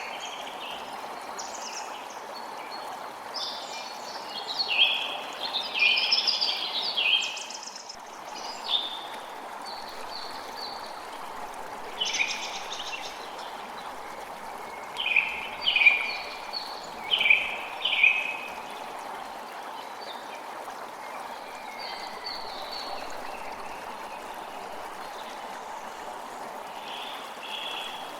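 A creek running steadily, with songbirds calling over it in scattered bursts, busiest in the first quarter and again a little past the middle.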